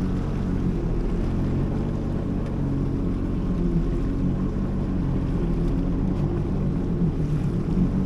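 Jet ski engine running steadily at idle, a low, even hum that holds the same pitch throughout.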